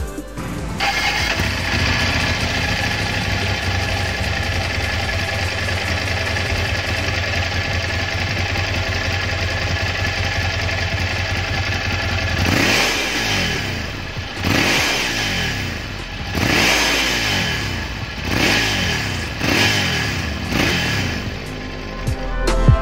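Ducati Monster 796's air-cooled L-twin starts just under a second in and idles steadily with a low rumble. From about halfway it is blipped repeatedly, with half a dozen quick revs rising and falling.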